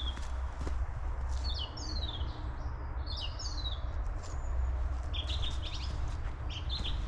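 Small songbirds calling in quick runs of short, high, falling chirps, four or five times over the few seconds. Under them is a steady low rumble with soft footfalls from walking on the forest floor.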